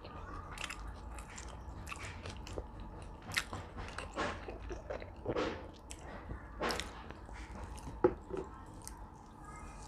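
A person eating: biting and chewing food, with irregular sharp crunches and mouth clicks, the sharpest snap about eight seconds in.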